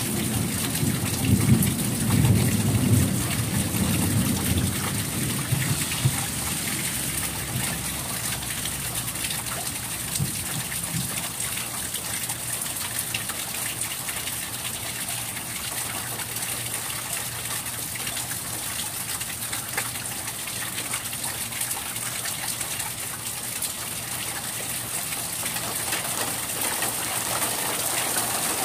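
Steady rain falling in a thunderstorm, a dense even hiss. A low rumble of thunder dies away over the first few seconds, and a brief fainter rumble comes about ten seconds in.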